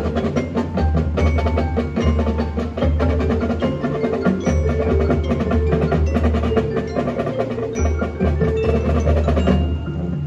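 A high school marching band playing its show: rapid mallet-percussion and drum strikes over sustained low bass notes.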